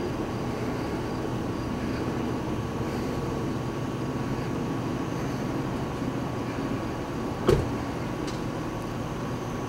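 Metro-North M8 electric multiple-unit test train rolling slowly through the crossover: a steady low rumble with a thin steady hum. A single sharp knock comes about seven and a half seconds in.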